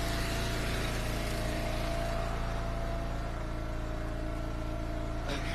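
Engine of an Eastonmade hydraulic wood splitter running steadily, a constant drone with a steady hum.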